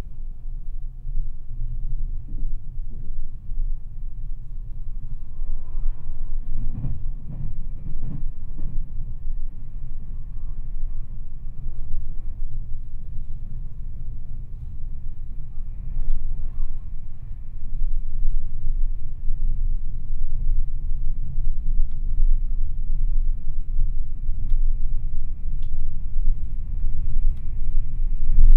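A Meitetsu 2200 series electric train heard from inside the cabin as it runs along the line: a steady low rumble of wheels on rail. There are a few knocks about six to eight seconds in, and the run grows a little louder from about two-thirds of the way through.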